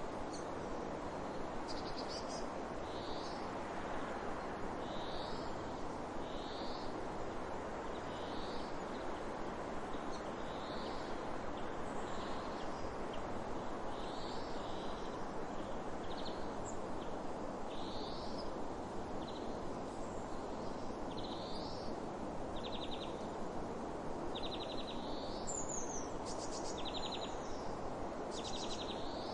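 A bird gives short, high calls about once a second over a steady rushing background noise. In the last few seconds, buzzier, rattling calls join in.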